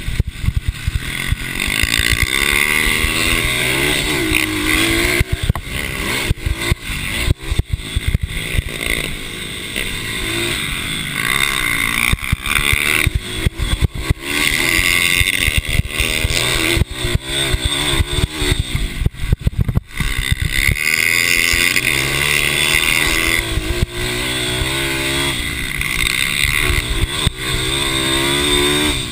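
Racing mini bike engines revving hard, the pitch climbing and dropping again and again as the riders open and close the throttle.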